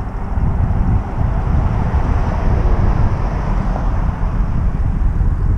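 Wind buffeting the microphone while riding: a loud, steady low rumble that flutters unevenly, with no engine note.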